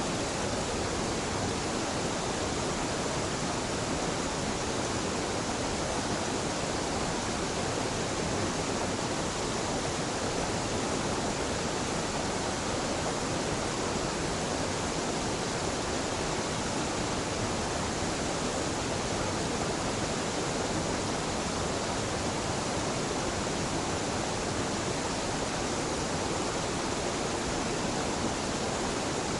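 Small mountain waterfall where two streams meet, its water falling and rushing in a steady, unbroken roar.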